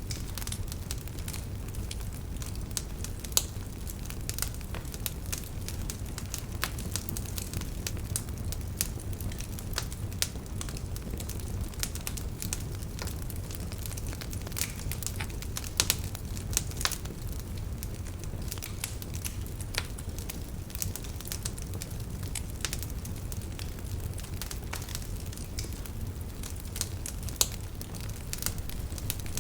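Wood fire in a fireplace crackling: a steady low rumble of flames with many sharp, irregular pops and snaps, a few of them louder.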